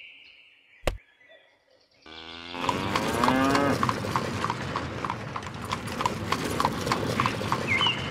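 Cattle sound effect for an ox cart: a cow moos once with a rising pitch, then hooves clip-clop at about three steps a second over a steady rumble. A single click comes just before, and short chirps sound near the end.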